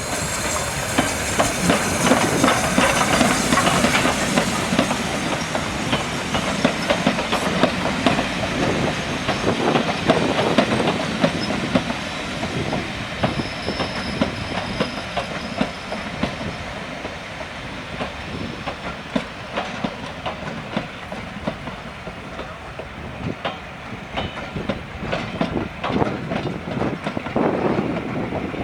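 A train running past on jointed track, its wheels clicking over the rail joints in a steady run of clicks. It is loudest in the first ten seconds or so, then eases off.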